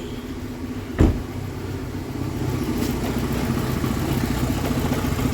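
2007 Volkswagen Passat engine idling rough and shaking, with a single sharp knock about a second in. The rough idle comes from a vacuum leak: the oil filler cap has been left off after an oil change.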